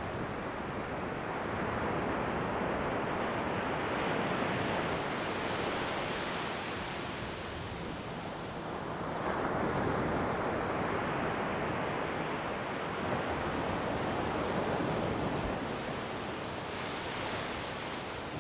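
Ocean surf: waves breaking and washing in, the noise swelling and easing in long surges, with a fresh wave breaking about halfway through.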